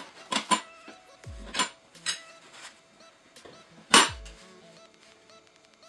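Steel tire irons clanking against a motorcycle wheel rim as the tire bead is levered over, several separate knocks with the loudest about four seconds in. Faint electronic background music with low falling bass sweeps runs underneath.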